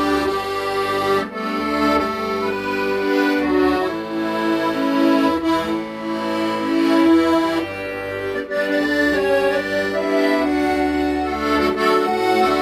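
Accordion playing a melody in held notes over a bass accompaniment whose notes change about every second.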